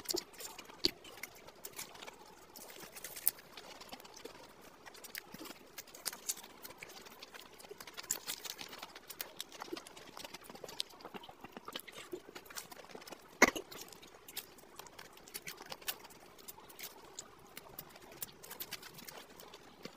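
Close-miked eating of fried samosas: a steady run of short crunching and wet mouth clicks from chewing the pastry. One sharp, much louder click comes about thirteen seconds in.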